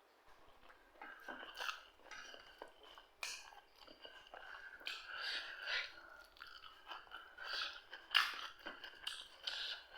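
A person chewing and biting crunchy food in irregular crunches, the loudest about eight seconds in.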